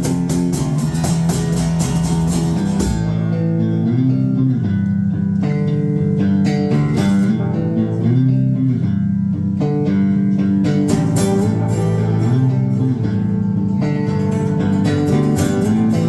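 Live band playing an instrumental passage of a song, guitars over a steady bass guitar line. The busy, bright top of the sound drops away about three seconds in and comes back about eleven seconds in.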